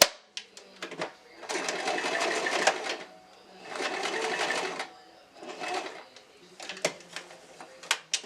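Sewing machine stitching hair wefts onto a wig cap in short runs: two runs of about a second and a half each, then a shorter one, with scattered clicks of handling in the pauses between them.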